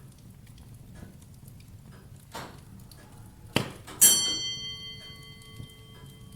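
Wood fire crackling in a fireplace with small ticks and pops. Past the middle come a soft whoosh, then a sharp knock and, just after it, a loud metallic clang that rings on and fades over about two seconds.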